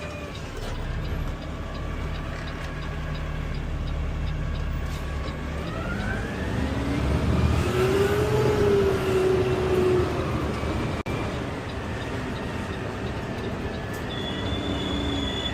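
Peterbilt 520 CNG garbage truck's engine running, heard from the cab: a steady low hum that revs up about six seconds in and settles back around ten seconds. A short high tone sounds near the end.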